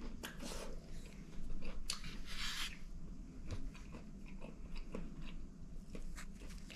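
Someone chewing a mouthful of fried bake stuffed with herring filet, with small wet mouth clicks and a short hiss about two seconds in.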